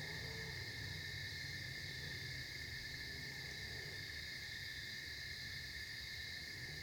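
Crickets chirring in a steady, unbroken chorus, over a low rumble that fits distant late-model race car engines.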